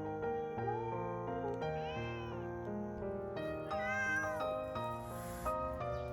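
A cat meowing twice, a faint meow about two seconds in and a louder one about four seconds in, over gentle background music.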